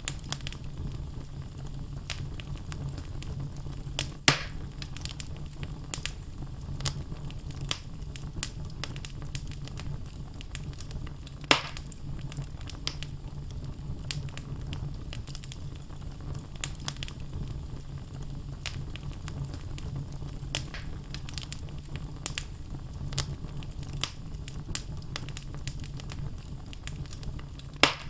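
Wood fire in a fireplace, logs crackling with a steady low rumble of flame and a constant scatter of small snaps. Three sharper, louder pops stand out: about 4 seconds in, about 11 seconds in, and near the end.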